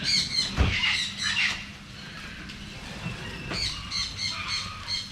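Birds squawking in quick runs of harsh, repeated calls, pausing for a couple of seconds midway and then starting again. There is a single low thump about half a second in.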